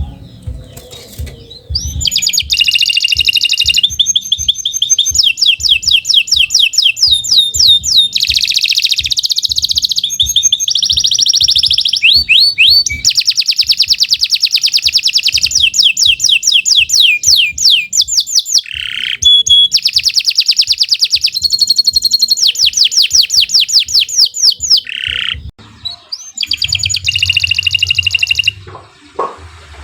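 Domestic canary singing a long, loud song of fast trills, each phrase a rapid run of repeated notes, with a couple of short breaks. The song stops shortly before the end.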